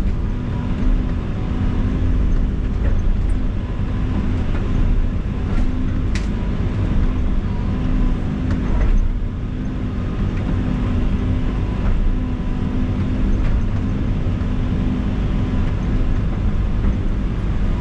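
Diesel engine of heavy earth-moving equipment running steadily while a tree is taken out, with a few faint knocks about six and nine seconds in.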